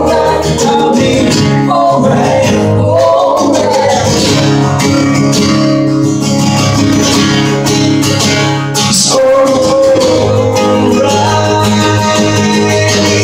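Live acoustic song: a strummed acoustic guitar with a man singing over it.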